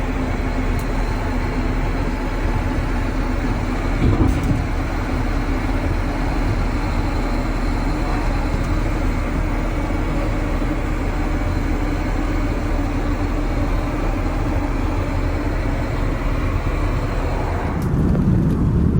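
Steady rushing roar of an Airbus A380 cabin in flight, airflow and engine noise with a faint steady whine on top. About 18 seconds in the sound changes abruptly to a deeper rumble.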